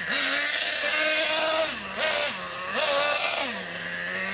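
Small nitro engine of a radio-controlled monster truck revving in repeated throttle bursts, its pitch rising and falling with each burst, then dropping to a lower steady note near the end.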